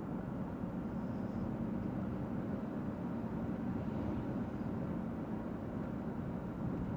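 Steady road noise of a car driving, heard from inside the cabin: a low, even rumble of engine and tyres.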